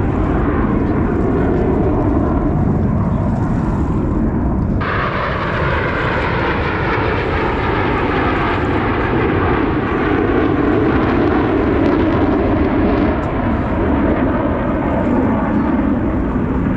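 Blue Angels F/A-18 Super Hornet jets making a loud, steady roar overhead. About five seconds in, the sound turns abruptly brighter and more hissing.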